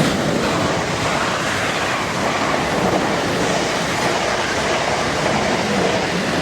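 Passenger train running along the line, a steady rumble of wheels on rail.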